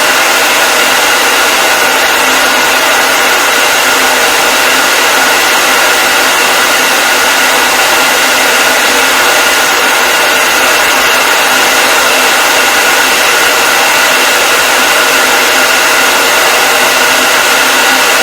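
Hair dryer running steadily, a loud even rush of blown air with a faint steady whine of its motor and fan, no change in speed.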